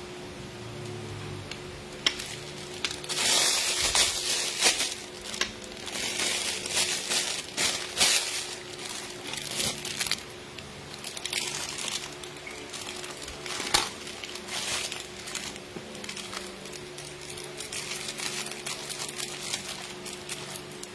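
Plastic crinkling and rustling in irregular bursts, with a few sharp knocks, as a plastic piping bag of soft whipped-cream icing is squeezed and handled while piping cupcakes.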